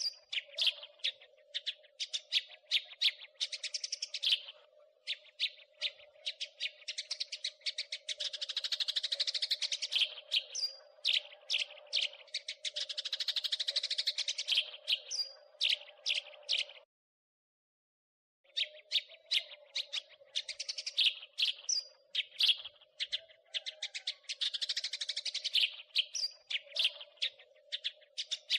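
House sparrows chirping and chattering in fast runs of sharp chirps, over a faint steady hum. The sound cuts out completely for about a second and a half just past the middle, then the chatter resumes.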